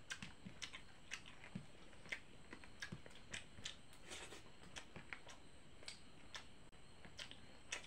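Faint eating sounds of rice and curry eaten by hand: chewing with a scatter of short, wet mouth clicks, several a second.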